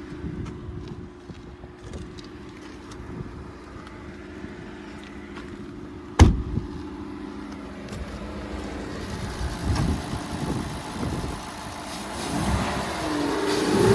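2021 Ford F-150 pickup's engine idling steadily, with a single sharp thump about six seconds in. Near the end the engine is revved, its pitch rising and falling.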